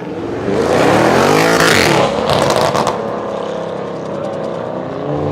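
A high-performance car engine revving hard, then a quick run of exhaust crackles and pops as the revs drop about two seconds in, after which the engine keeps running more steadily.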